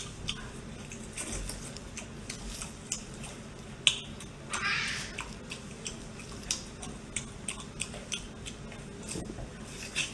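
Close-up eating sounds as spicy-sauced octopus is chewed: wet chewing and lip smacking with many small clicks. There is a sharper snap about four seconds in, followed by a short hiss.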